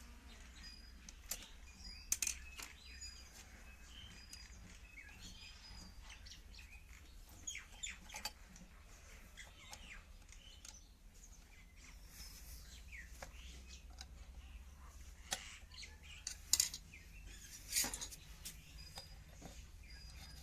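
Scattered light clicks and taps, as of small tools and metal parts being handled while servicing a sewing machine, over a low steady hum. Short high chirps repeat now and then between them.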